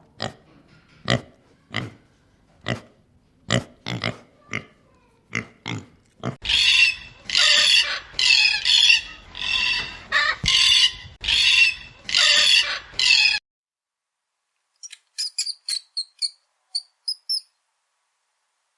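Pig grunting in short separate grunts, then squealing loudly in a run of about ten harsh squeals. After a pause, a few short high chirps come near the end.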